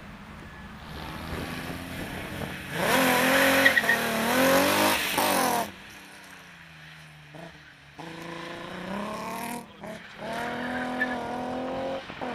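Rally car engine revving hard under acceleration, its pitch climbing and dipping once for a gear change, then cutting off suddenly. Further on, a quieter engine accelerates away, its pitch rising in steps through the gears.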